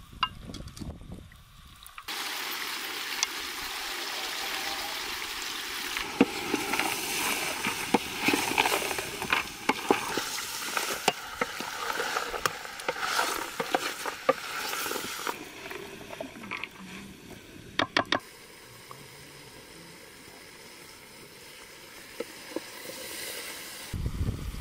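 Lamb pieces frying in a steel pot over a wood fire, sizzling as they are stirred, with a spoon clicking and scraping against the pot. The sizzling starts a couple of seconds in and dies down after about fifteen seconds, followed by a few sharp taps.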